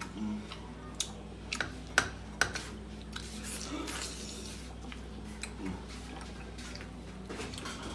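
Scattered light clicks and taps, spaced irregularly, strongest in the first two and a half seconds, over a steady low hum.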